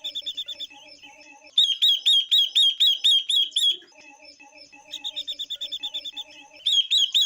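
Female silver-eared mesia and female red-billed leiothrix calling. The calls are repeated chirps: fast runs of short notes alternate with slower, louder hooked notes at about five a second.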